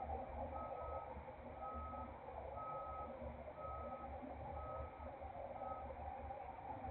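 Truck reverse alarm beeping about once a second, a single steady pitch, stopping near the end, over a steady low rumble: a truck backing up.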